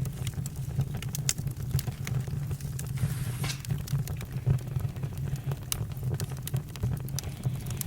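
Campfire burning: irregular crackles and pops of burning wood over a steady low rumble, with a brief hiss about three seconds in.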